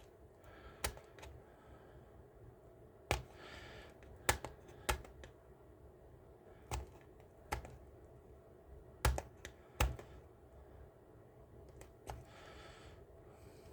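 Scattered sharp clicks and taps of hard plastic model parts being pried and worked apart, about a dozen at irregular intervals, with a couple of faint rustles between them.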